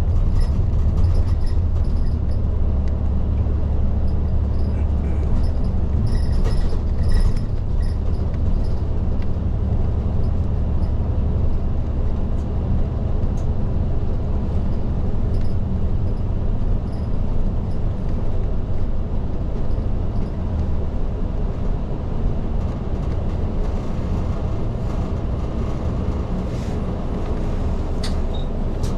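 Diesel city bus of type LDG-KV234Q3 under way, heard from inside at the front. Steady low engine and road rumble, a little lighter in the last third, with a few faint rattles and clicks.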